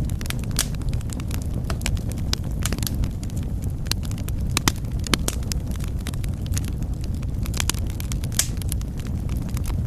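Wood fire burning in a fireplace: a steady low rumble of flames with irregular crackles and sharp pops throughout.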